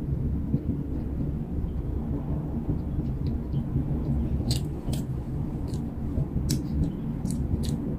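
Chewing and mouth noises close to the microphone: a steady low rumbling noise, joined about halfway through by sharp wet clicks and smacks.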